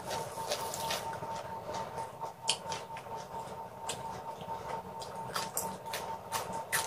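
Close-miked chewing of raw long bean: irregular crisp crunches and wet mouth sounds, the sharpest about two and a half seconds in and near the end. A faint steady high tone runs underneath.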